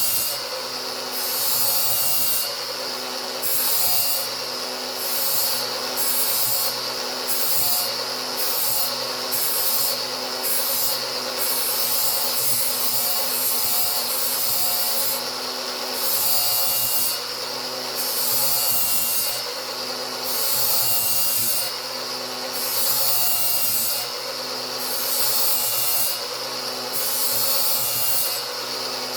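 Angle grinder running steadily while its disc grinds a new edge on a steel mower blade in repeated back-and-forth passes, the hiss of the grinding swelling and easing about every one to two seconds.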